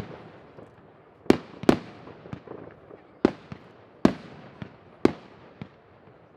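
New Year's fireworks going off: irregular sharp bangs, five loud ones and several fainter ones, over a low continuous background noise between them.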